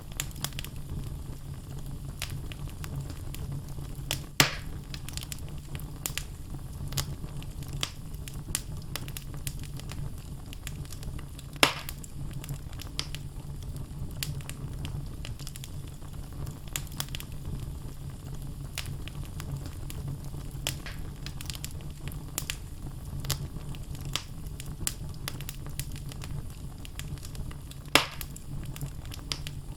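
Wood fire burning in a fireplace: a steady low rumble of flames under constant crackling of the logs. Three loud pops stand out, about four seconds in, near twelve seconds and near the end.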